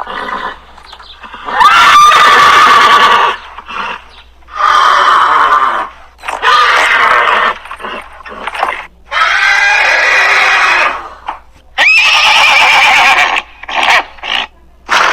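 Horse whinnying again and again: about five loud neighs of a second or two each, some with a quick rise in pitch at the start, with shorter snorts or calls between them.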